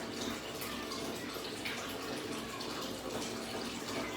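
Tap water running into a basin with irregular splashing, as a face is washed and rinsed after cleansing with bar soap.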